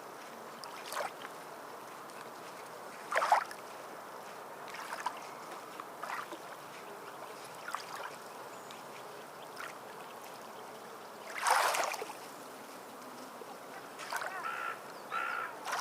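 Sea water lapping and splashing over a steady wash, with short splashes every second or few, the biggest about three seconds in and near the last third.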